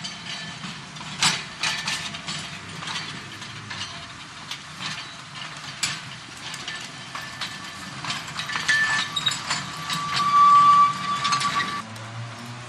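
Narrow-gauge electric tram running, rattling with irregular clicks and knocks, with a steady high whine about ten seconds in that is the loudest part. The sound changes abruptly near the end.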